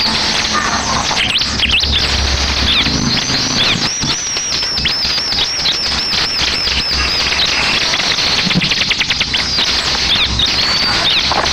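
Ciblek (bar-winged prinia) singing loudly: a run of quick, down-slurred high whistles at about four a second, then a fast rattling trill about three-quarters of the way through. A steady hiss runs underneath.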